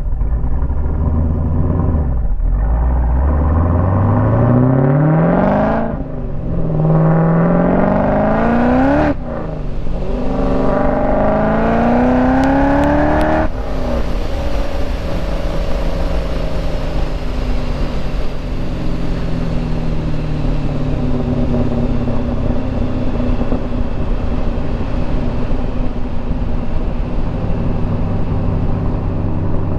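Supercharged 408 cubic-inch LS V8 with a Summit Racing Pro LS 8722R1 cam, at full throttle while driving. It pulls up through three gears, with two quick upshifts. About halfway through it lifts off and settles into a steady cruise, its note slowly falling.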